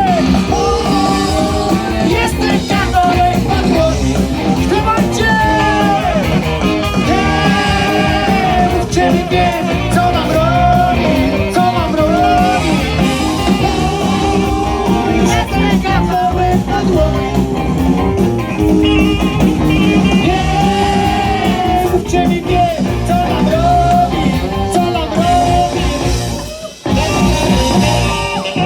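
Rock band playing a song with a sung vocal line over electric guitar. The music breaks off for a moment about two seconds before the end, then comes straight back in.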